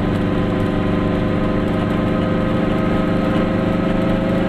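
Goggomobil's air-cooled two-cylinder two-stroke engine running at a steady cruising speed, heard from inside the small car, with an even rush of road noise.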